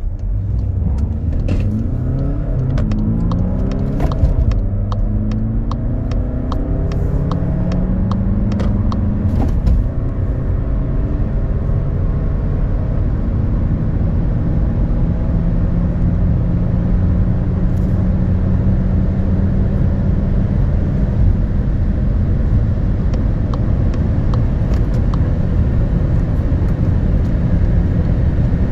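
VW Golf 8 accelerating hard from a standstill. The engine note climbs and drops back at a run of quick gear changes in the first ten seconds or so, then settles into a long, slow climb at high speed.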